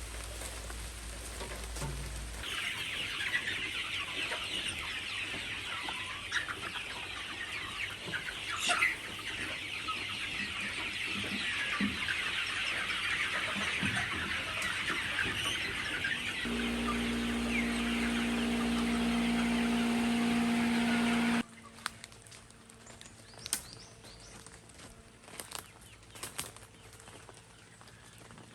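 A flock of chickens clucking and cheeping as a busy, continuous chorus. A steady hum joins about two-thirds of the way in. Both cut off abruptly, leaving quieter scattered clicks near the end.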